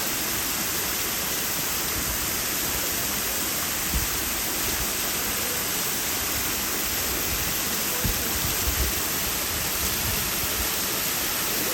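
Steady rush of a waterfall: water falling and splashing in a constant roar, with a few faint low thumps.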